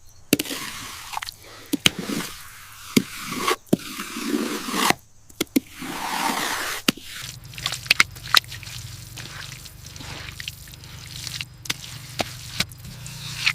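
Irregular scraping with scattered sharp knocks and clicks, typical of hand construction work. A faint low hum comes in about halfway through.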